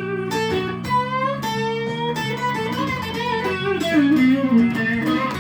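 Electric guitar playing a slow blues lead fill between vocal lines, with notes bent up and down over steady low accompanying notes.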